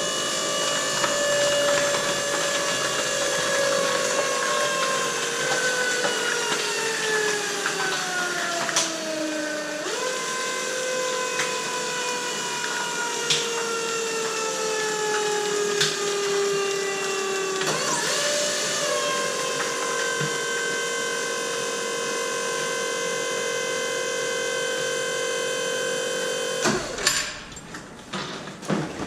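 PET mini baler running a compaction cycle on plastic bottles: its motor-driven pump whines, falling steadily in pitch as the ram presses down, jumping back up about ten seconds in and falling again, then running at a steady pitch until it cuts off near the end. A few sharp cracks come through along the way.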